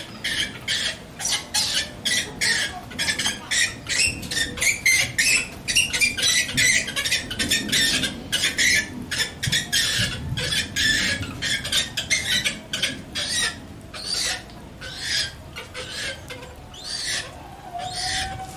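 Young purple swamphen, about four months old, calling over and over in short, sharp notes, two or three a second, spacing out near the end.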